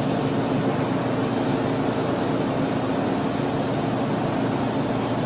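Steady background hum and hiss with a faint low drone, unchanging throughout.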